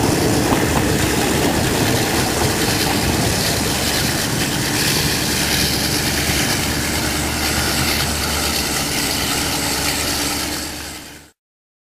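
Diesel passenger train on the move. At first its wheels click over the rails as the carriages pass close by, then a steady low rumble as the train draws away. The sound cuts off abruptly near the end.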